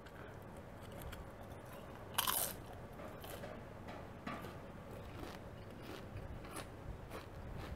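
Close-miked crunching of a chip being bitten and chewed. One loud bite comes about two seconds in, then smaller crunches follow about once a second as it is chewed.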